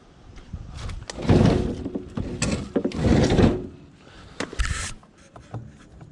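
Clatter and scraping of scrap items being handled, with scattered knocks and two louder rough scraping stretches, about a second in and again about three seconds in.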